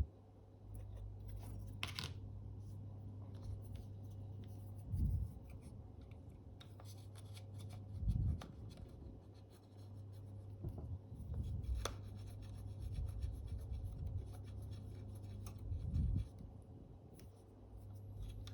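Faint scraping and rubbing as sticky old glue is worked off a camera's shutter flex cable, with scattered small clicks and a few soft low bumps, over a steady low hum.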